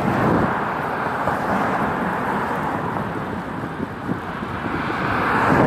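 Steady rushing of wind over the microphone and street traffic noise during a bicycle ride, swelling near the end.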